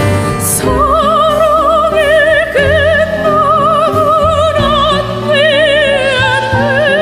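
Music: a soprano sings long, high held notes with wide vibrato and no words, sliding up into a new note twice, over soft sustained accompaniment.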